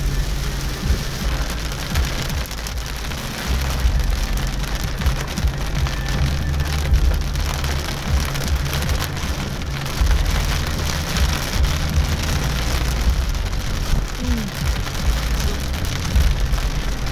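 Heavy rain pelting a moving car, a dense patter of drops over a steady low rumble.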